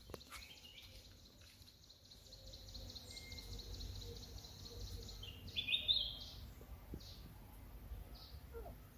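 High-pitched animal chirps over a low outdoor rumble: a fast ticking trill for the first five seconds or so, then a short cluster of louder chirps just past the middle.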